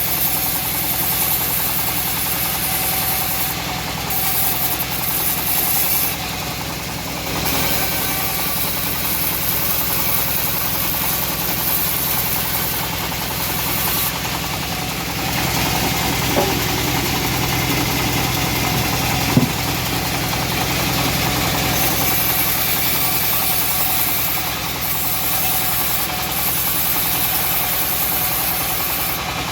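Homemade bandsaw running steadily on its engine while sawing teak. There is a brief sharp click about nineteen seconds in.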